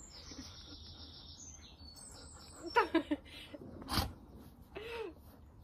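Garden birds chirping in a steady high trill, with a few short pitched cries a little under three seconds in and again near five seconds, and a single sharp click about four seconds in.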